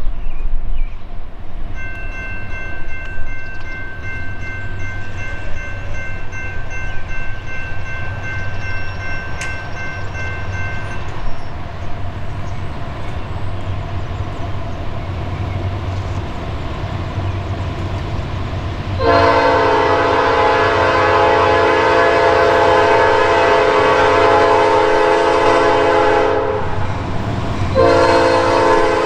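Nathan P5 air horn on a Norfolk Southern GE AC44C6M locomotive sounding loudly, with a long blast that starts about two-thirds of the way in, a short break, and then another blast near the end. Under it runs the low rumble of the approaching locomotive, and faint steady tones can be heard earlier.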